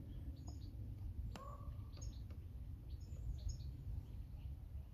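Small birds chirping in short, high notes that come in little clusters, over a steady low rumble, with a single sharp click about a second and a half in.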